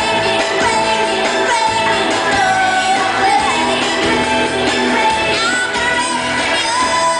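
Live pop band playing, with a woman singing sustained, bending notes over it, heard through the big echo of an arena.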